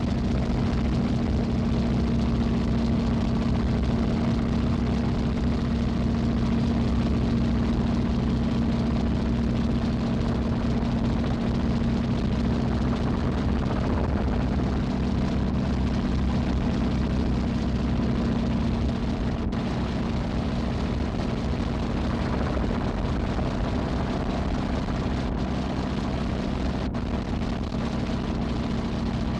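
A steady engine drone with a constant low hum, unchanging throughout.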